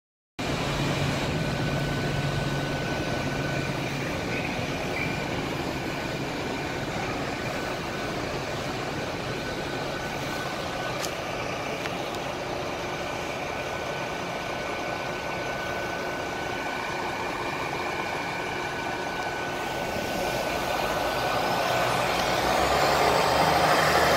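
Great Western Railway passenger train standing at the platform with its engines running steadily, then starting to pull away: the sound grows louder and a rising whine begins a few seconds before the end.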